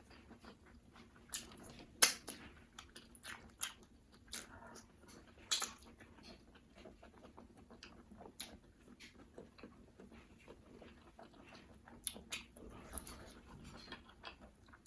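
Close-miked wet chewing and lip-smacking while eating pounded yam (fufu) with slimy ogbono and egusi soup: an irregular run of sticky clicks and smacks, the sharpest about two, five and a half and twelve seconds in.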